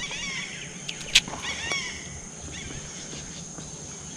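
Birds chirping in short, repeated calls that bend up and down, over a steady high insect drone. A single sharp click comes about a second in.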